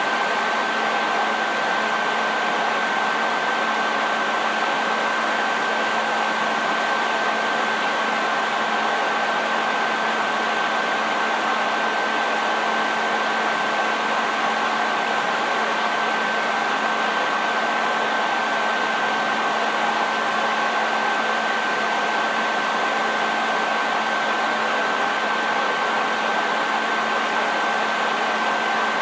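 Hair dryer running steadily, a constant rush of blown air over the hum of its motor, with a steady high whine through it.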